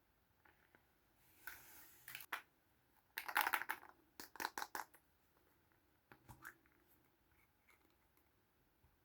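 Small plastic Kinder Surprise toys being handled: a soft rustle, then a quick cluster of light plastic clicks and crackles a little over three seconds in, and a few more taps about six seconds in.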